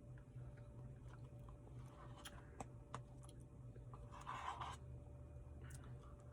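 Faint eating sounds of a Reese's Blizzard being eaten: scattered light clicks and one brief wet mouth noise about four seconds in, over a low steady hum.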